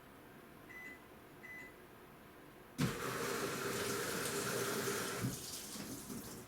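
Two short high beeps, then about three seconds in a sudden loud rush of water pouring into an AQUA washing machine's tub as it fills, easing off near the end.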